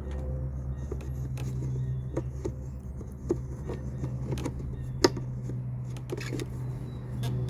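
Walk-behind lawn mower's small engine running steadily, with scattered light clicks and one sharp tap about five seconds in.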